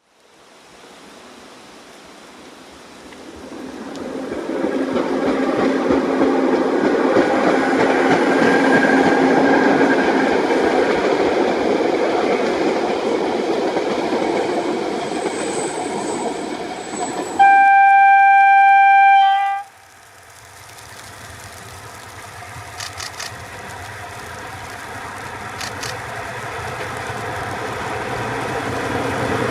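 Narrow-gauge diesel train running, its rumble swelling over several seconds. Partway through comes one steady horn blast of about two seconds, after which the train's rumble builds again with a few faint clicks.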